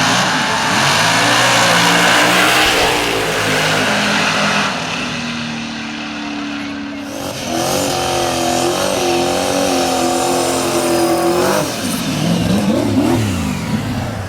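Drag race car engines running loud, with several revs up and down; there is a quick rev up and back down near the end.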